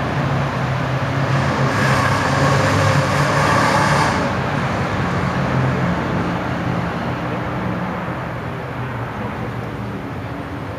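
A motor vehicle's engine running at a steady low pitch. It grows louder about two seconds in, then slowly fades away, like a vehicle passing.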